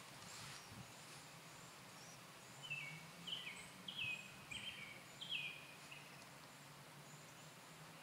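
A bird calling: a quick run of about six short notes, each dropping in pitch, in the middle, over a faint steady background with a few faint high chirps.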